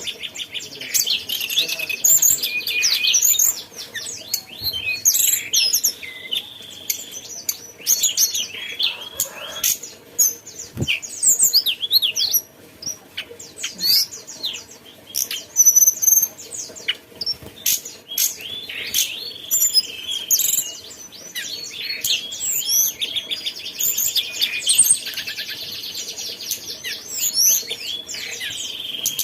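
A tledekan gunung, a small Indonesian mountain songbird, singing a long, rapid, varied chattering song of quick high notes. The song runs in fast runs broken by short pauses.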